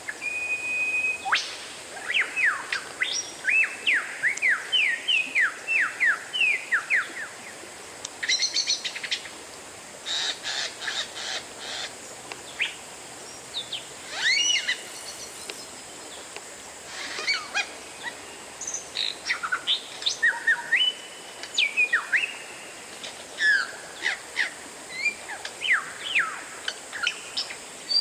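Oriental magpie-robin (kacer) in full song: a varied run of loud whistled phrases, mostly quick down-slurred notes, with a held level whistle about a second in and again near the end, and stretches of fast, scratchy chatter between them.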